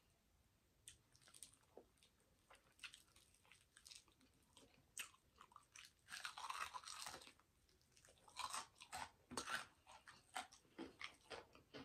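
Faint crunching bites and chewing into a Flamin' Hot Cheetos-crusted fried chicken drumstick dipped in cheese sauce. There are scattered crisp crackles at first, then a louder crunch of the coating about six seconds in and more chewing crunches near the end.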